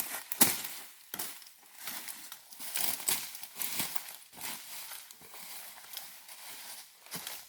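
Irregular crackling and rustling of dry leaf litter and twigs underfoot: footsteps moving through forest brush.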